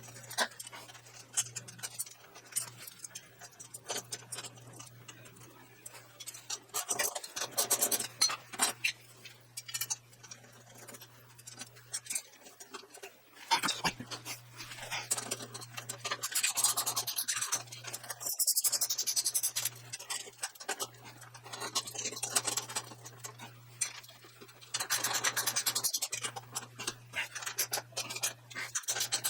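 Welding on the lathe stand's gussets: several runs of crackling lasting a second or more each, with scattered ticks between them over a steady low hum.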